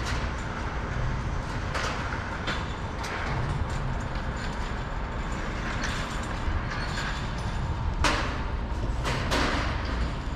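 Road traffic: a steady low rumble with vehicles passing, the loudest pass coming about eight seconds in.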